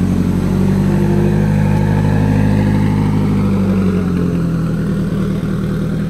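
The engine of a Prototype GTX600 McLaren F1 replica idling with a steady, low exhaust note, settling slightly lower in pitch about four seconds in.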